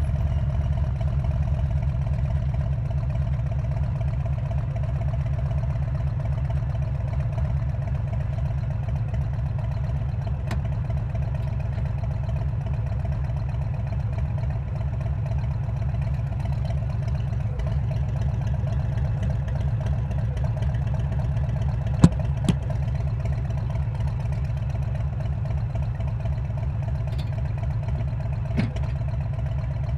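Harley-Davidson Road King's V-twin running steadily through a Cobra exhaust, a deep, even stream of firing pulses with no revving. Two sharp clicks come about two-thirds of the way through.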